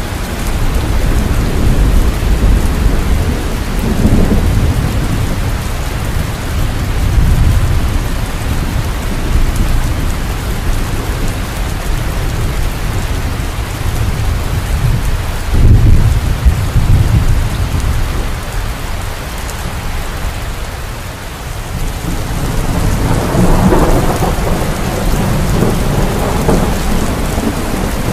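Steady heavy rain with deep rolling thunder: a thunderstorm, the rumbles swelling and fading several times, the strongest about sixteen seconds in and a longer roll near the end.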